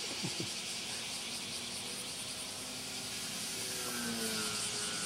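Radio-controlled pylon racer plane's motor whining as it flies past, its pitch dropping about four seconds in, over a steady outdoor hiss.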